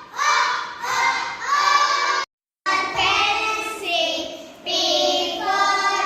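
Young children singing a phonics song together in sung syllables. The sound cuts out completely for a moment about two seconds in, then the singing carries on.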